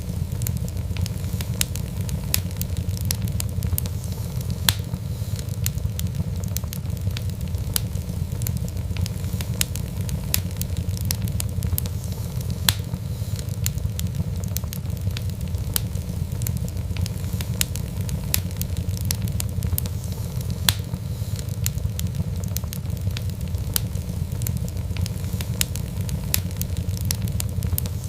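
Wood fire burning: a steady low rumble with frequent irregular crackles and pops, a few of them louder.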